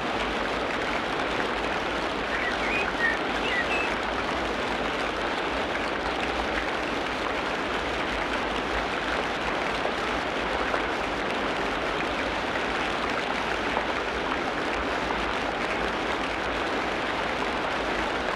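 Tropical rainforest ambience: a steady, even hiss of rain falling on the forest, with a few short, high chirps about three seconds in.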